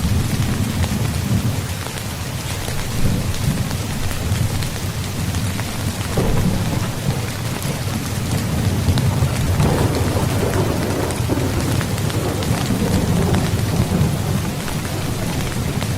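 Steady heavy rain falling, with thunder rumbling underneath; the rumble swells about six seconds in and again around ten seconds.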